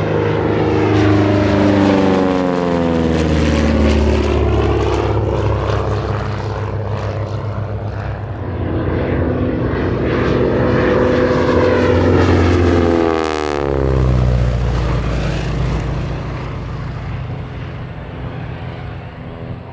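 Grumman TBM Avenger's big radial engine and propeller droning past on low flybys. Its pitch drops as it goes by, once about two seconds in and again about thirteen seconds in.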